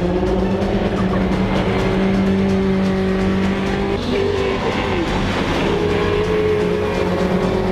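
Race car engines running on the circuit, holding a steady, even pitch, with a brief dip about four to five seconds in before the steady note returns.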